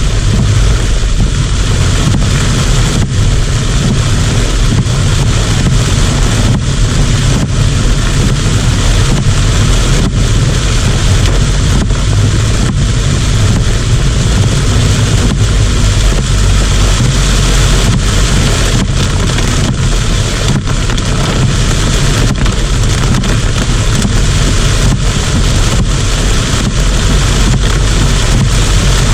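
Heavy typhoon rain pouring steadily, with a loud low rumble of wind buffeting the microphone.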